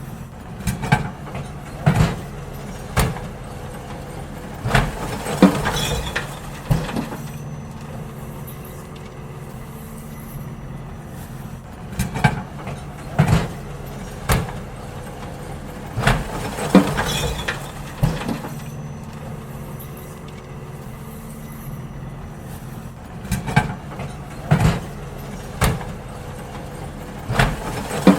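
Garbage truck engine running steadily while emptying bins, with groups of loud metallic clanks and bangs every few seconds as bins are lifted, knocked and tipped into the truck.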